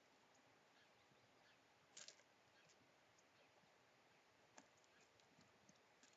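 Faint taps from a Eurasian jay in a bird feeder: a quick double tap about two seconds in and a single tap a little past four and a half seconds, over near silence.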